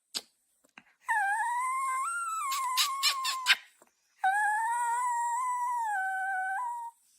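A dog howling: two long, high howls of about two and a half seconds each, with a short break between them. A few sharp clicks sound near the end of the first howl.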